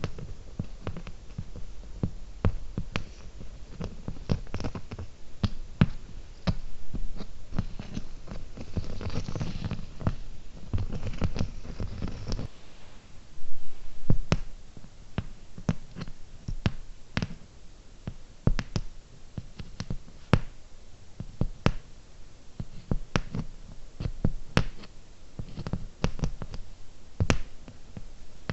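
Close-miked fingernail tapping: many sharp, irregular taps, a few a second, with a stretch of duller, rustling handling noise about a third of the way in.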